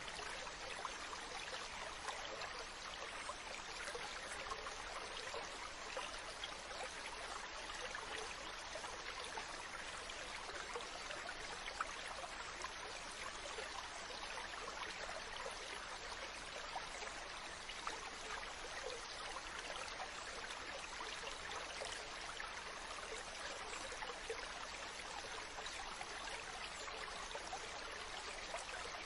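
Mountain stream running steadily over rocks, an even rush of flowing water with small splashes and gurgles throughout.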